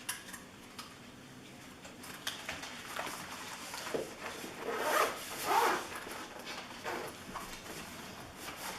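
Rasping, rustling handling noise with scattered clicks, as drones and their gear are handled, and two louder rasping strokes about five seconds in.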